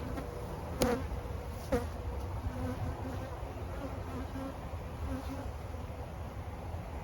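Honeybees buzzing around an open hive during an inspection, a wavering drone with two short sharp sounds about one and two seconds in.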